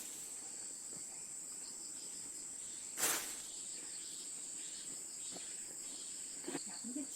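Crickets and other insects trilling steadily at a high pitch, with a brief burst of noise about three seconds in.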